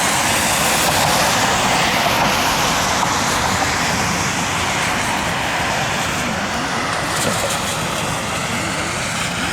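Jet airliner engines: a broad roar that is loudest about a second in and then slowly fades.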